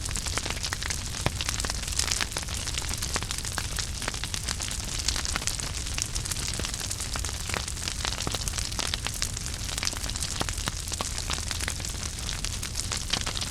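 Campfire burning with constant crackling: many sharp pops and snaps over a steady hiss and low rumble.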